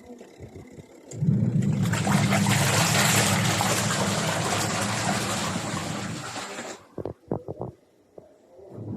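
Water rushing and gurgling through a washing machine. It starts suddenly about a second in and fades out near the seven-second mark, followed by a few short clicks.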